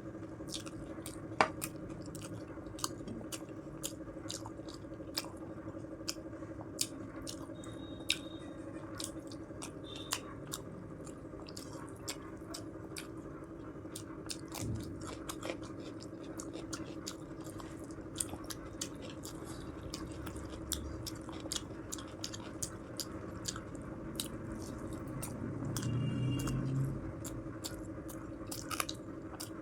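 Close-miked chewing and mouth sounds of a person eating in big bites: many short wet clicks and smacks, with a louder stretch of chewing near the end, over a steady low hum.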